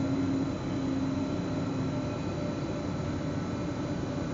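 Electric S-Bahn train running, heard from the driver's cab: steady rolling noise with a held humming tone from the drive.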